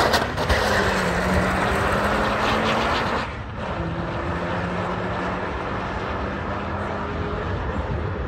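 Drag-racing car engine at full throttle, accelerating hard away down the strip. Its sound drops in loudness about three seconds in, then runs on more distantly.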